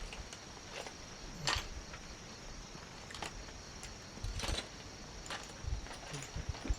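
A handful of scattered light knocks and clatters, about five spread over the seconds, over a steady high insect drone.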